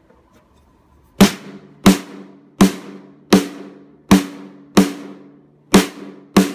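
Snare drum struck eight times at an even pace, about one hit every 0.7 s starting about a second in, each a sharp crack with a short low ring. The head is damped by a homemade fat-snare ring cut from an old two-ply snare head (an Evans Power Stroke reverse dot).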